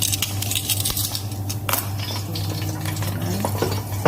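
Utensil scraping and clinking in the metal air fryer basket as fried chicken skin is tossed and turned over, irregular clatter over a steady low hum.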